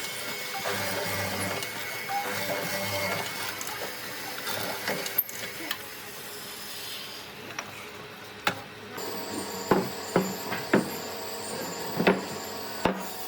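Woodworking shop sounds: a steady rubbing, scraping noise of work on wood, then five sharp knocks in the last few seconds.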